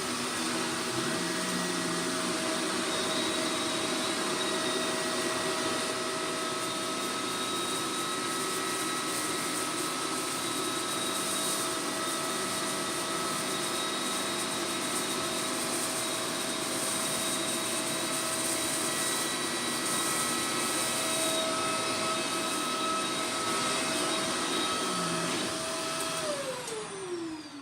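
Shark Powered Lift Away Deluxe vacuum cleaner running steadily with a high motor whine, vacuuming up shredded paper. Near the end it is switched off and the whine falls away as the motor winds down.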